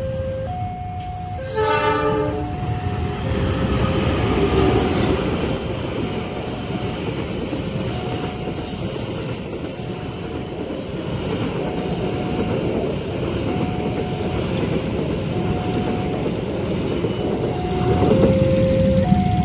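A train passing over a level crossing with a steady rumble of wheels on rail, its horn sounding one short blast about two seconds in. Throughout, the crossing's warning bell rings in two alternating tones, about one a second.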